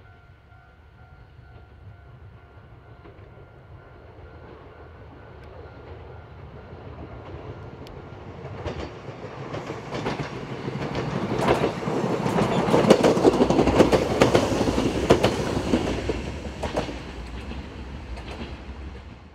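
Yōrō Railway electric train approaching and passing close by: the sound builds to a peak with a quick clickety-clack of wheels over rail joints, then fades as it moves away. A level-crossing warning bell rings faintly in the first few seconds.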